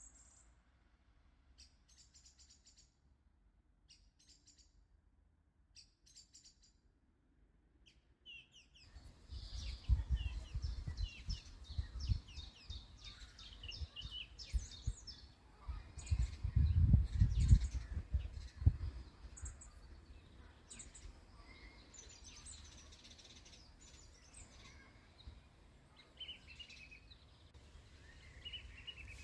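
Small birds chirping and calling in a meadow, faint at first and livelier from about nine seconds in. Over them runs a loud low rumble in gusts, strongest in the middle.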